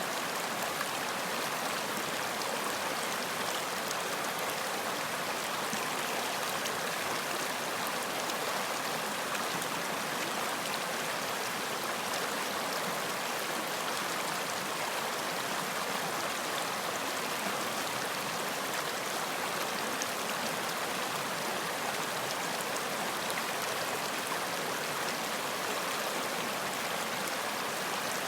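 Running water from a stream, a steady, unchanging rush and babble.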